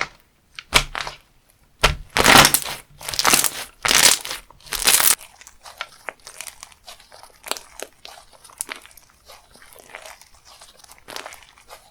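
Crunchy slime being squeezed and pressed by hand, giving loud crinkling crunches over the first few seconds, then softer, fine crackling.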